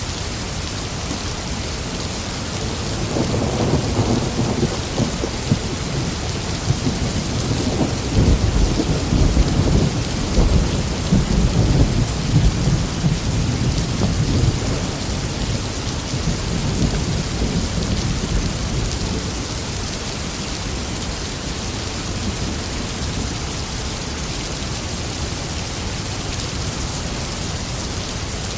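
Steady heavy rain with rolling thunder: a low rumble swells about three seconds in, and a longer, louder one builds around eight seconds and rolls on for several seconds before dying away under the rain.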